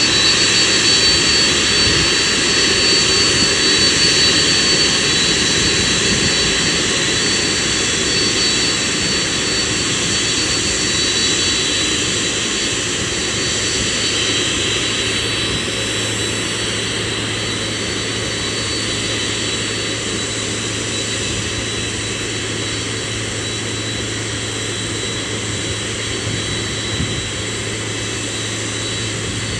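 Boeing 767-300 jet engines running with a steady rush and high whine, slowly getting quieter.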